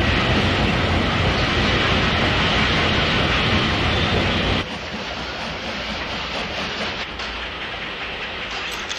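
Train running along the rails close by, a steady rumble with wheel clatter. It starts suddenly and loud, then drops to a lower level about four and a half seconds in.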